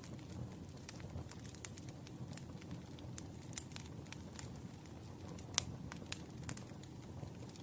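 Wood fire burning: a low steady rumble of flames with scattered sharp crackles and pops from the burning firewood, two of them louder, about five and a half and six seconds in.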